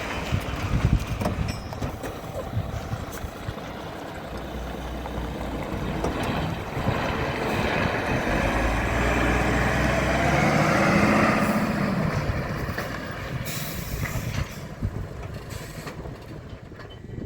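A heavy vehicle's engine running. It grows louder and its pitch rises and then falls, peaking about ten seconds in before easing off.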